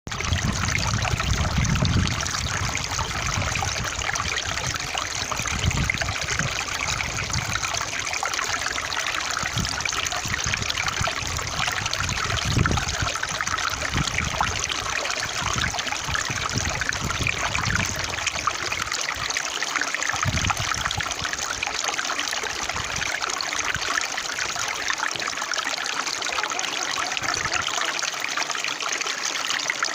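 Water trickling and splashing steadily in a small stream, a continuous even rush; a low rumble comes and goes through the first twenty seconds or so.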